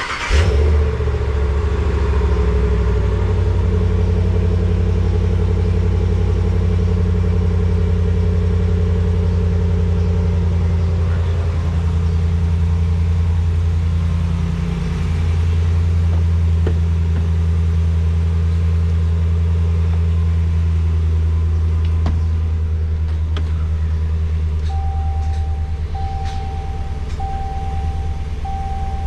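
Dodge Ram 1500's 5.7-litre HEMI V8 cold start: the engine catches right at the start, then runs a steady high idle after sitting unused for days. The idle eases off a little near the end, while a short electronic beep repeats about every second and a half.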